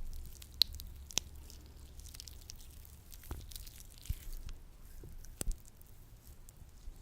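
Latex-gloved hands working sticky lotion: soft squishing and rubbing, broken by a few sharp sticky snaps and clicks, the loudest about half a second, a second and five and a half seconds in.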